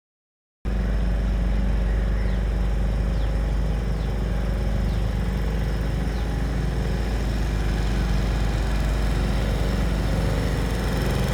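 Boat engine running steadily, a continuous low throb that cuts in just after the start.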